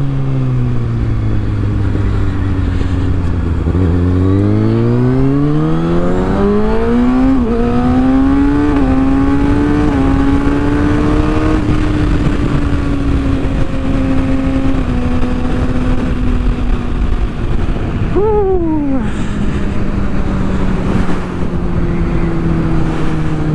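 Kawasaki ZX-6R's inline-four through a Yoshimura exhaust, heard from the rider's helmet mic under wind noise. The engine pulls up through the gears, its pitch climbing with brief dips at each upshift, then cruises steadily. A quick rise and fall in revs comes about eighteen seconds in, and the engine settles lower near the end.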